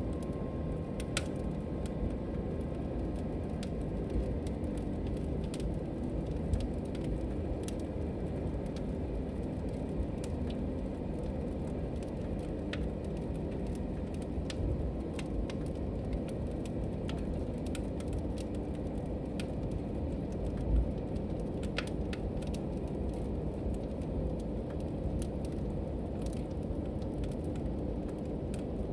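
Log fire burning in a fireplace: a steady low rumble with scattered sharp crackles and pops, and one louder pop about two-thirds of the way through.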